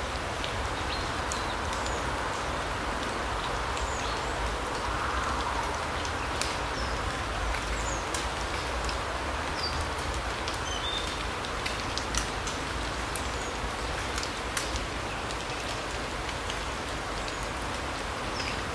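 Forest ambience: an even, steady noise, with a few short, high bird calls and scattered faint ticks scattered through it.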